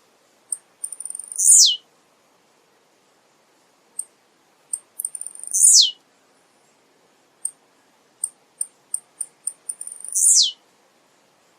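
Male blue-black grassquit (tiziu) singing three times, about every four to five seconds. Each song is a few short, high ticks followed by a quick call that ends in a steep falling sweep.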